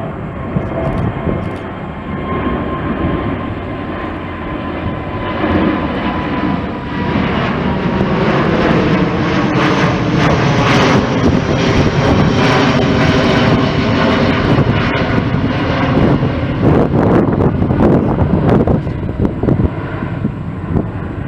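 Jet airliner passing close by: a high engine whine that slowly falls in pitch, then a louder rumble that builds to a peak about halfway through and eases off near the end.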